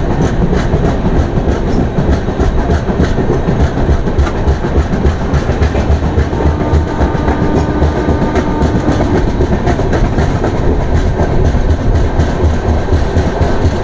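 Express passenger train pulling out of a station, heard from the open door of one of its coaches: a steady rumble and clatter of the wheels running on the rails.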